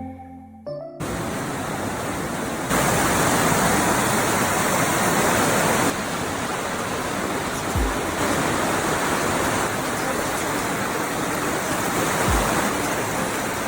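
Underground waterfall: a steady rush of falling water. It steps louder for about three seconds a few seconds in, then settles back, with two soft low bumps later on.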